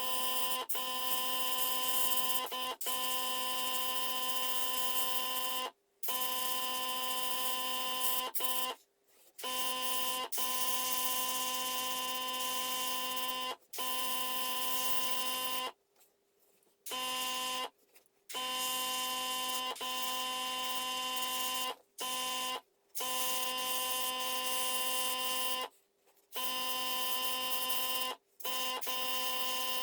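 A steady machine hum with a hiss, like a small electric motor or fan, that cuts in and out abruptly many times, in runs of one to four seconds with short silent gaps between.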